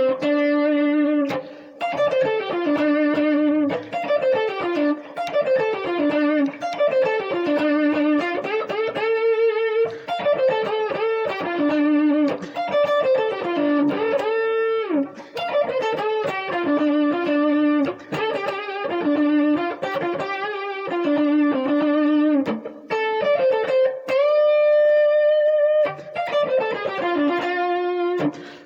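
Overdriven electric guitar playing an aggressive blues lead solo: quick falling single-note runs broken by short pauses, with a few held notes bent upward.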